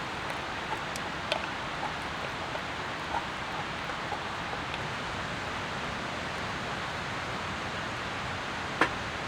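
Steady rain hiss with scattered light ticks and one sharper click near the end.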